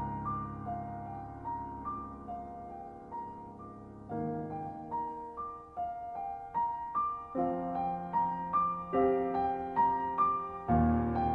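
Background piano music: a slow, gentle melody of single notes over sustained chords.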